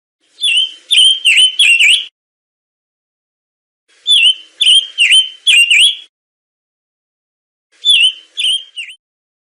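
A songbird calling in three short phrases of quick, sharp, repeated chirps, each note a quick dip and rise in pitch, separated by silent gaps of about two seconds.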